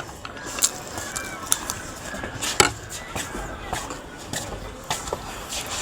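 Irregular, sharp clicks and taps, about seven over a few seconds, over a low background hum.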